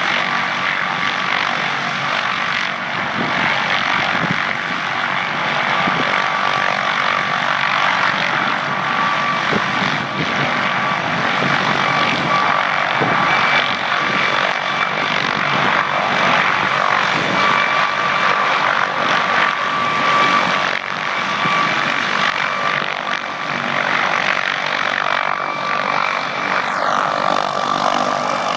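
MD 600N helicopter's turboshaft engine and rotor running under load, a steady high turbine whine over dense rotor and engine noise. Near the end a high whine drops in pitch.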